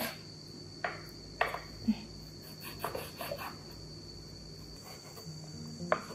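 Large kitchen knife cutting pomelo pith on a wooden cutting board: a handful of short knocks and slicing sounds as the blade goes through and meets the board. A steady, thin high-pitched whine runs underneath.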